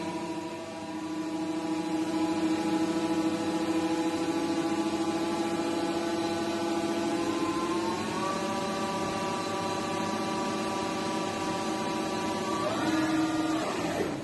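Gildemeister NEF 600 CNC lathe running, a steady machine whine made of several tones. Its pitch steps up a little about eight seconds in and glides higher near the end, as the machine changes speed.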